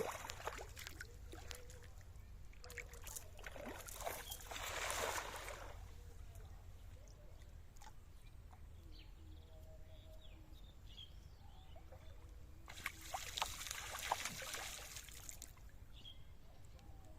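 Water splashing and sloshing in two stretches of a few seconds each, with a few faint bird chirps between them and near the end.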